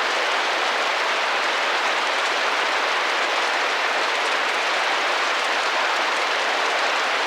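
Steady rain gently drumming and tapping against a window pane, an even wash of drops with no let-up.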